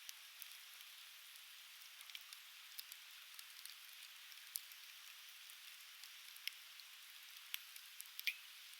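Conifer firewood burning in an open fire pit, crackling with scattered sharp pops over a steady soft hiss. The loudest pop comes near the end.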